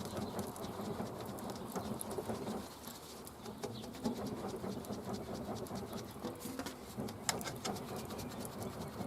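Wood campfire crackling: scattered small snaps and pops, thickest about seven seconds in, over a steady rushing noise.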